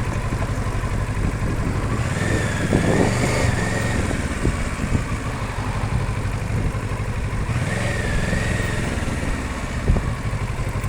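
Kawasaki Versys 650's parallel-twin engine idling steadily at a stop.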